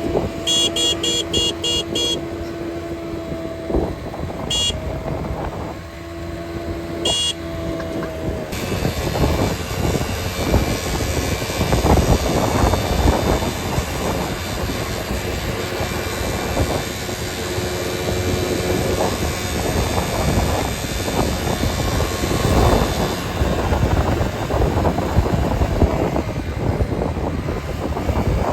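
Vehicle horn sounding in two long blasts, then a steady rush of road and rain noise from a moving vehicle.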